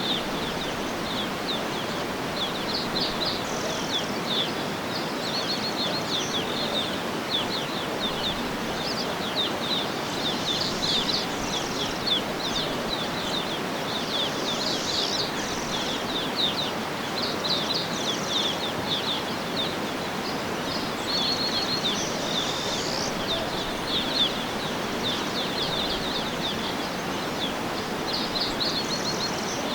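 Birds chirping and trilling continuously, many short calls, over a steady outdoor background hiss.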